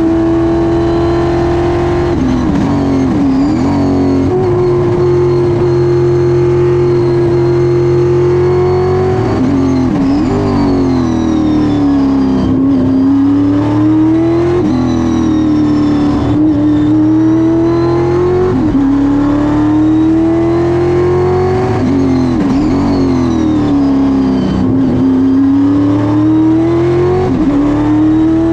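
Stock Car race car engine running hard through a lap, heard on board. The revs climb, break sharply at gear changes, and fall away under braking, again and again, with the loudness steady and high throughout.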